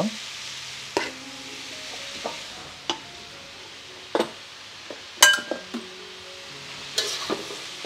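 Couscous and vegetables sizzling in a steel wok with a steady hiss, with several sharp metal clinks against the wok, the loudest about five seconds in. Soft background music underneath.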